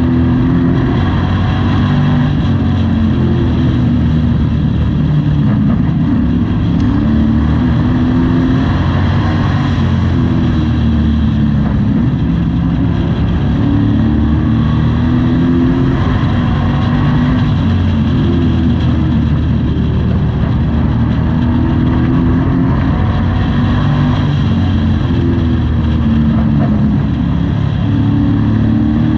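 Pro Truck race truck's engine heard from inside the cab, winding up and easing off again and again as the truck laps a short oval.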